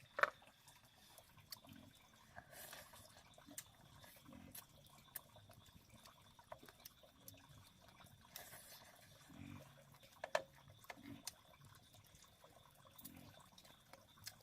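Faint water splashing and dripping, with scattered sharp clicks and two louder knocks, about a quarter second in and about ten seconds in.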